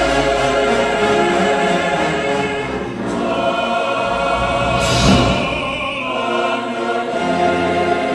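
A choir singing held, multi-voiced chords that shift from chord to chord, with a brief sung hiss of a consonant about five seconds in.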